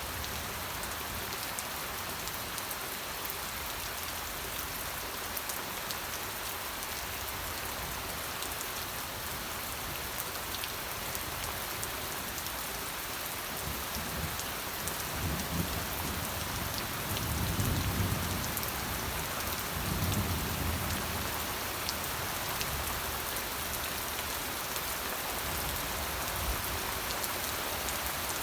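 Steady rain falling, an even hiss with scattered drop ticks. A low rumble swells twice past the middle.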